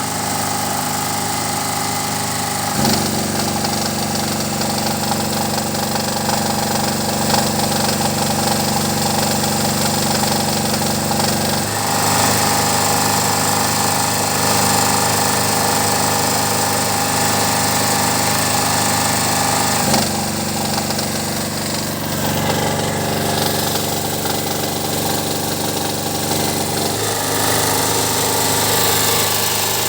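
Generator running with a rapid mechanical knock under load. The running note changes abruptly a few times.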